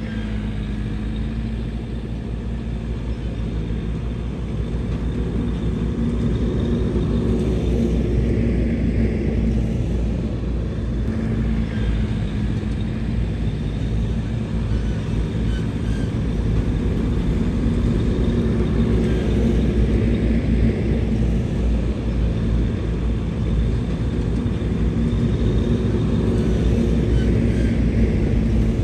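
Heavy diesel engine of earth-moving equipment running steadily with a deep rumble, growing somewhat louder about a fifth of the way in.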